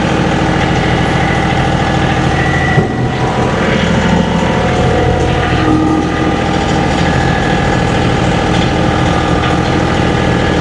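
John Deere 2038R compact tractor's diesel engine running steadily, a low even drone with a faint high whine above it.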